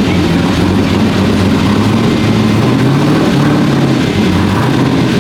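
A car engine running steadily at a low pitch, shifting slightly in pitch about three seconds in.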